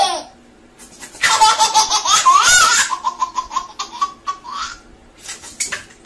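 A baby laughing in belly-laugh peals: a long, loud run of rapid laughter about a second in, then shorter peals and one more burst near the end.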